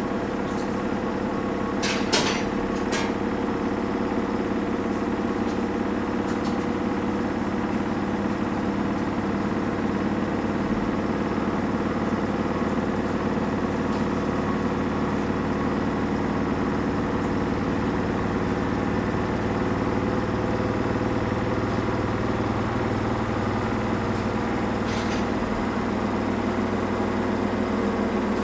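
Samsung Eco Bubble washing machine running a cotton cycle, giving a steady motor hum. A few short clicks come about two and three seconds in, and another comes near the end.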